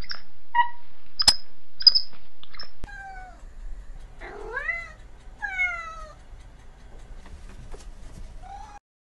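Domestic cat meowing several times: a few short, sharp calls in the first few seconds, then longer meows that slide up or down in pitch.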